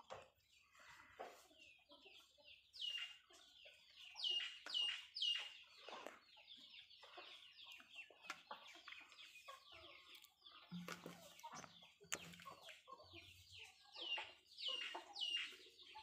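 Birds calling over and over: short calls that drop sharply in pitch, loudest in clusters about four to five seconds in and again near the end.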